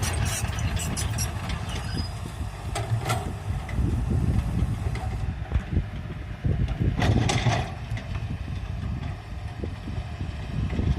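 Komatsu PC200 excavator's diesel engine running steadily, with scattered sharp clicks and knocks and a louder short noisy burst about seven seconds in.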